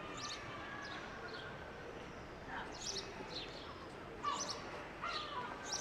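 Small birds chirping in many short, high calls over a steady background hiss of outdoor noise.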